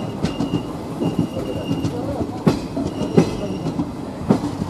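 Passenger train running on the track, heard from on board: a steady rumble with sharp clacks as the wheels pass over rail joints, about three strong ones in the second half. A thin, high wheel squeal comes and goes.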